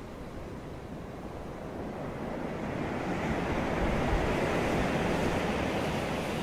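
Sea surf: the rush of a wave builds from about two seconds in and stays loud near the end.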